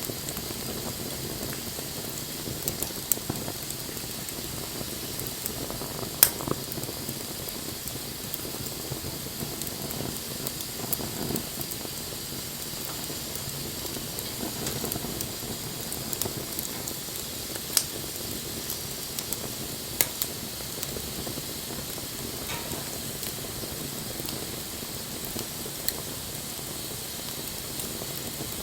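Wood campfire burning: a steady hiss and sizzle broken by scattered sharp crackling pops, the loudest about six seconds in.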